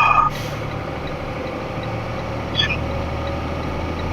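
Box truck driving, its engine and road noise heard from inside the cab as a steady low drone that grows louder in the second half, with a short sharp sound at the start and another brief one partway through.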